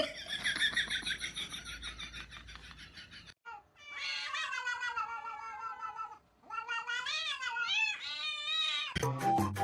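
A cat yowling in three long, drawn-out calls, each breaking off before the next; the pitch of the last one wavers up and down. Music comes in near the end.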